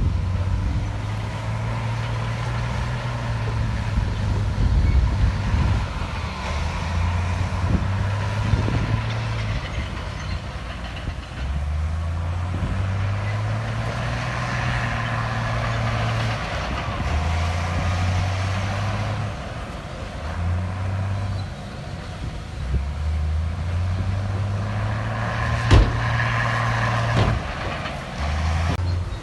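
Heavy diesel construction machine working, its engine note rising and falling in steps as it takes and sheds load. A single sharp clank comes near the end.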